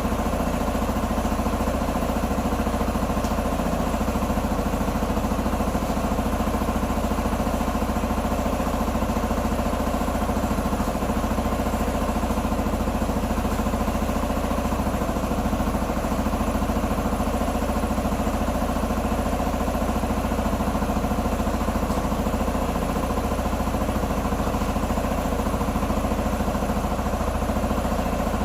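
A small motorcycle or scooter engine idling steadily, with no changes in speed, likely the repaired Q2 125 scooter.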